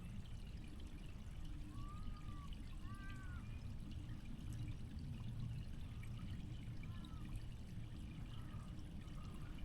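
Faint, steady trickle and lapping of creek water, with a few short high chirps about two, three and seven seconds in.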